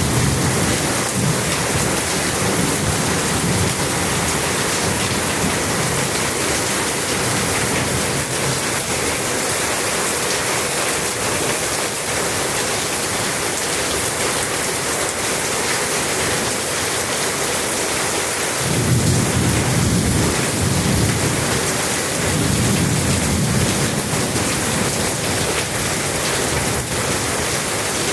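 A strong windstorm with heavy rain: a loud, steady rushing of wind and rain, with deeper rumbling surges near the start and again about two-thirds of the way through.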